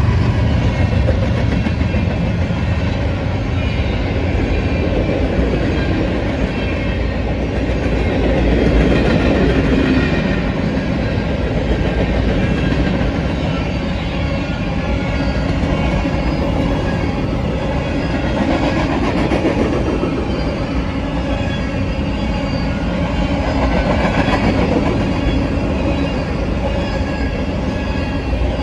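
Diesel-hauled BNSF freight train passing at close range: a locomotive goes by at the start, then covered hoppers and boxcars roll steadily past on the rails.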